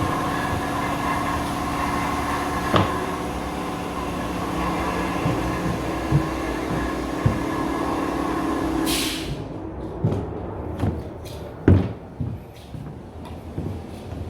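A steady mechanical hum with a few sharp clicks, which cuts off abruptly about nine seconds in; after it come scattered knocks and thuds, one heavier than the rest.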